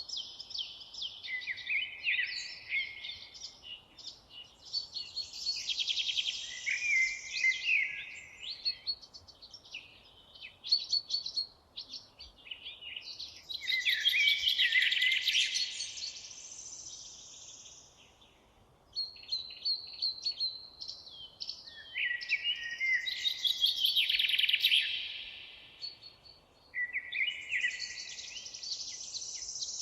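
Songbirds singing: rapid chirping phrases several seconds long, separated by brief pauses, over a faint background hiss.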